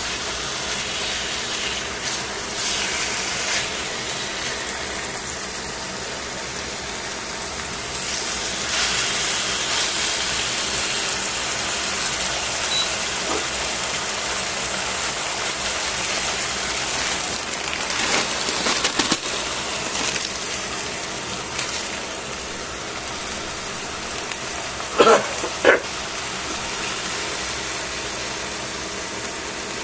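Food frying in hot oil in a stainless steel pan, first pork slices and then bean sprouts, with a steady sizzle. A few sharp clacks of the tongs come through, the loudest two close together near the end.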